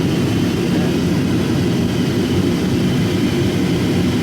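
Steady drone of an airliner's jet engines and airflow heard from inside the passenger cabin during the descent, a constant low rumble that does not change.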